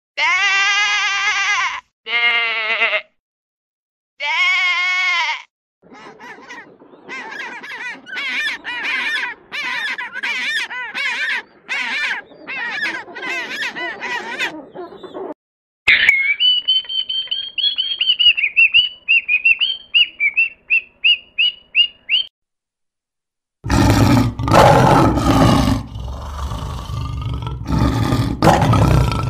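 A sequence of animal calls: sheep bleating three times in the first few seconds, then a long run of quick repeated calls, a high warbling chirp lasting several seconds, and near the end a lion's deep, rough roaring.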